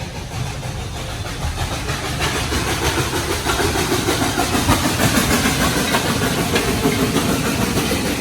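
Steam locomotive running past, a noisy rumble and hiss that grows steadily louder.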